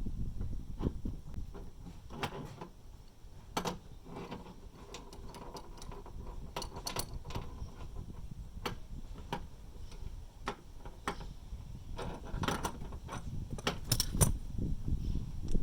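Scattered metallic clicks and clinks of hands and tools working brass flare nuts onto the copper refrigerant pipes of an air conditioner's outdoor unit, over a low steady rumble.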